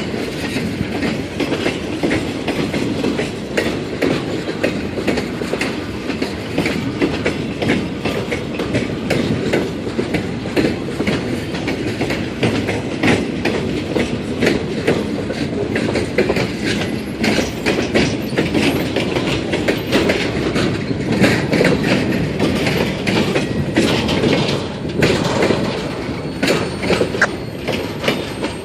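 Freight train rolling past, its steel wheels clacking over the rail joints in a continuous run of clicks over the rumble of the cars.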